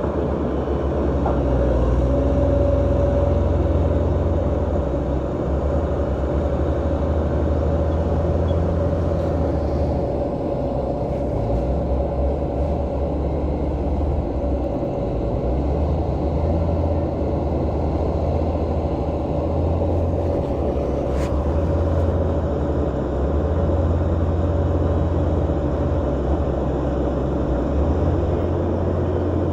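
Diesel engine of heavy earthmoving machinery running steadily under work: a continuous deep rumble with a steady engine drone over it.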